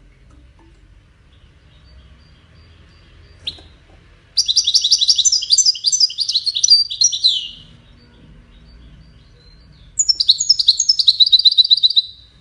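European goldfinch singing in the Moroccan 'widani' style: two rapid, twittering phrases of high notes, the second ending in a fast trill.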